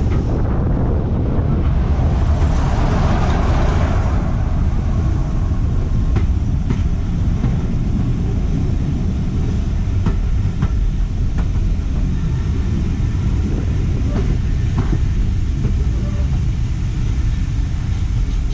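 Train running along the line with a steady low rumble and a few faint clicks; a hissing rush swells and fades about two to four seconds in.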